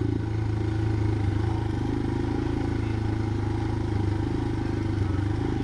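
Motorcycle engine running steadily at low revs while being ridden off-road.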